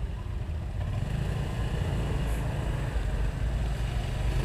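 Low, steady engine rumble, growing a little louder toward the end.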